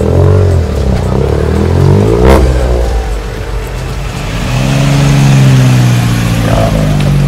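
Several cars, classic British saloons and sports cars among them, driving slowly past one after another with engines running. One passes close about two seconds in, and a strong engine note rises and holds from about four and a half seconds.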